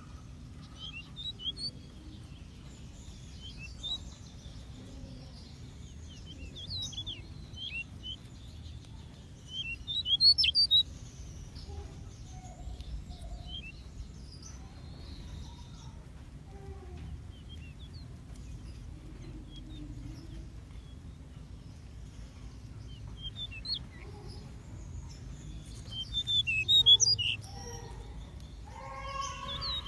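Small aviary birds chirping: short high chirps scattered throughout, with a louder flurry of chirps about ten seconds in and another near the end, over a steady low hum.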